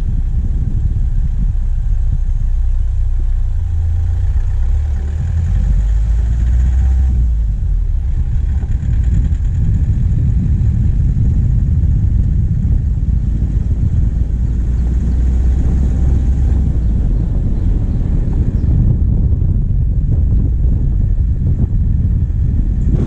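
Diesel engine of a vehicle running steadily while driving, heard from the bonnet as a dense, low rumble. The high hiss drops away about three-quarters of the way through.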